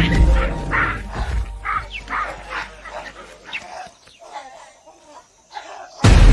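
Monkeys' alarm calls, short calls repeated a few times a second over a low music rumble, fading away as the troop flees. Near the end a sudden loud low boom cuts in.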